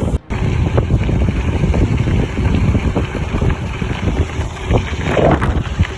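Gravel bike rolling over a loose gravel road: wind buffeting the microphone over a rough rumble of tyres on gravel, with frequent small knocks and crunches. The sound drops out for a moment just after the start.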